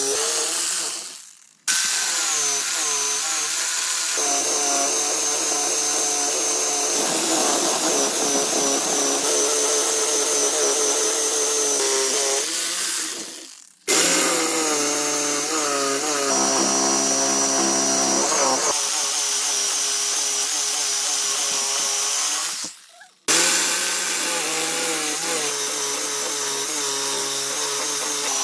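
A power tool cutting or working wood, its motor pitch wavering as the load changes. It stops briefly three times and starts again at full level each time.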